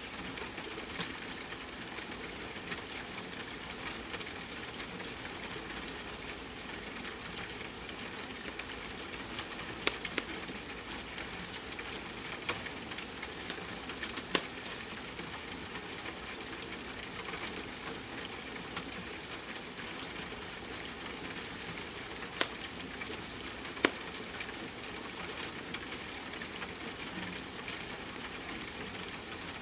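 Steady rain hiss mixed with a crackling wood fire, a handful of sharp pops from the burning logs standing out now and then.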